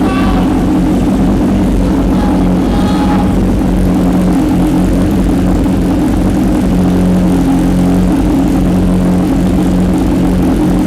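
BMW S1000R's inline-four engine idling steadily and loudly after a cold start, breathing through a decat mid-pipe and SC Project slip-on exhaust with the catalytic converter removed.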